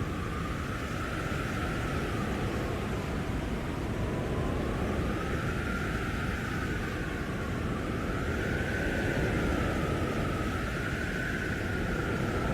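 Blizzard wind howling: a steady rush of storm wind with a faint whistling howl that rises and falls in pitch every two to three seconds.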